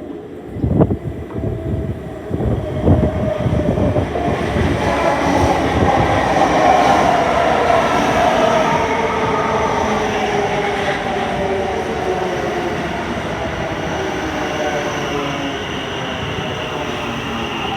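A High Capacity Metro Train, an electric suburban train, running along the track. There are a few heavy clunks near the start, then a sustained loud rumble with a whine that slowly falls in pitch.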